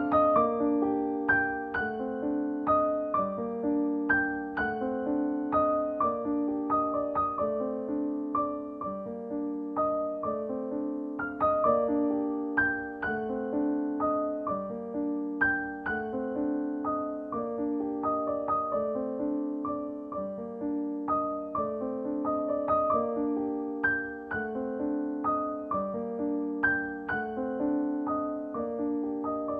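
Background piano music: a gentle, repeating pattern of struck notes and chords.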